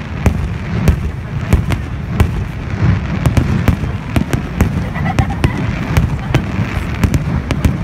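Aerial fireworks display: a rapid, irregular barrage of sharp bangs and crackles from bursting shells, over a steady low rumble.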